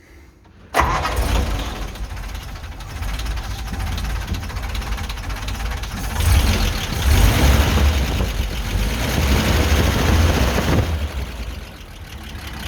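The 1940 Karrier K6 winch truck's petrol engine catches and starts about a second in, then runs. It gets louder for several seconds from about six seconds in and drops back near the end. It is running sweeter on newly fitted spark plugs, though it still has its old HT leads and distributor cap.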